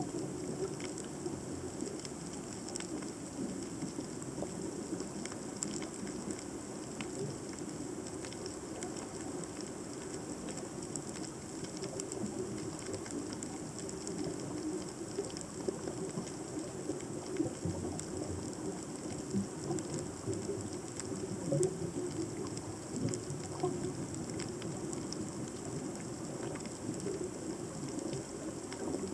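Underwater ambience picked up by a submerged camera: a steady, dense crackle of tiny clicks over a low, fluttering rumble of moving water.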